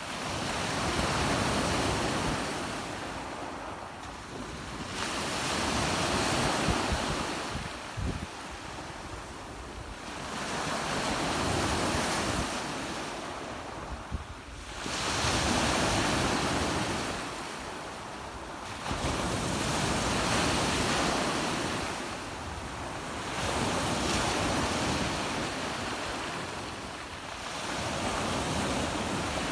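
Sea waves breaking on a shore, the surf swelling and falling back about every four to five seconds, with some wind buffeting the microphone.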